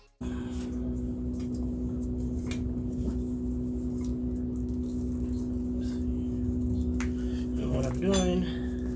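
A steady hum with a low rumble underneath, broken by a few light clicks and clinks, and a short bit of a man's voice near the end.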